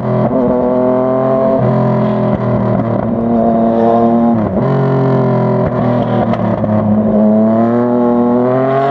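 Yamaha MT-09's 847 cc inline-three engine under way, its note rising and falling with throttle and gear changes. The pitch dips briefly about halfway through, then climbs steadily as the bike accelerates near the end.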